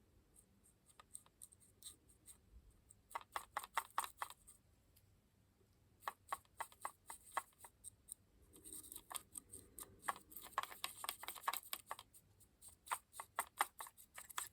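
A small brush scrubbing dry weathering pigment powder into a model locomotive's bogie, in quick scratchy strokes. The strokes come in four runs separated by short pauses.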